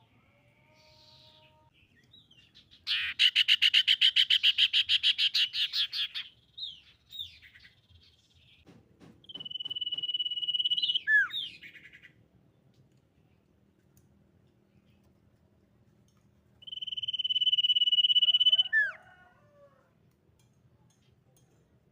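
Common iora calling: a fast trill of about seven notes a second for three seconds, a few short chirps, then two long, level whistles, each ending in a quick falling note.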